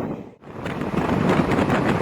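Express passenger train running at speed, heard from on board: wheel and track clatter with wind buffeting the microphone. The sound drops out briefly about half a second in, then returns.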